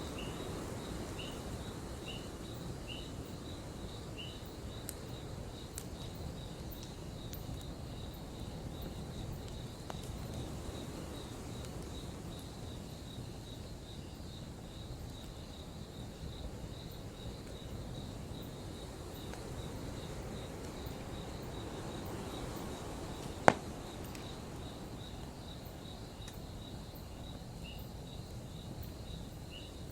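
Campfire burning with a low steady hiss and crackle, while crickets chirp in an even, repeating pulse. One sharp, loud pop from the fire cracks out about two-thirds of the way through.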